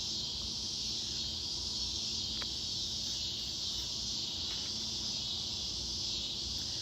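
Steady high-pitched hiss with a few faint clicks, the constant background noise of the narration track.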